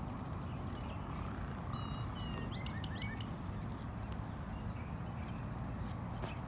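Small birds chirping, with a quick run of short high chirps about two seconds in, over a steady low background rumble.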